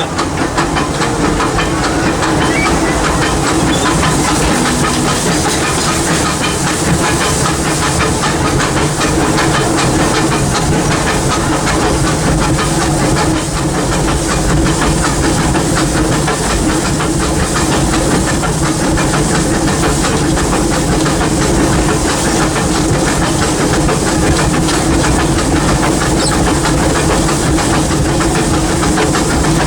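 Steam locomotive running, heard from inside its cab: a steady hiss of steam over the rumble and clatter of the engine and wheels, unbroken throughout.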